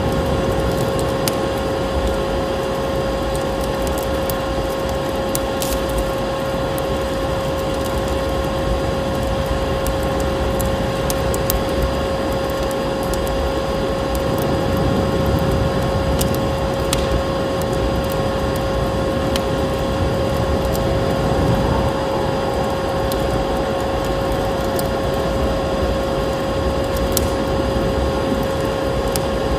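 A vacuum cleaner's steady motor hum, one constant tone over a rushing noise, layered with fireplace crackles and the low rush of snowstorm wind.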